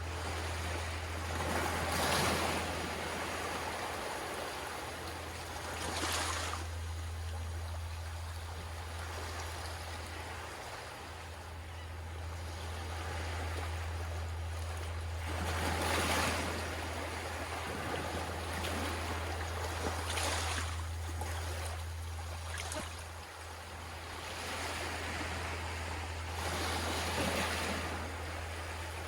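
Small waves washing in on a shore, each wash swelling and fading every few seconds, over a steady low hum.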